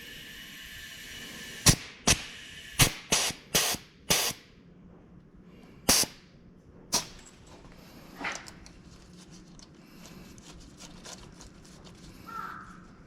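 A series of sharp, separate clicks and knocks from hand-tool work on the car, about eight of them irregularly spaced over the first seven seconds, followed by fainter small clicks.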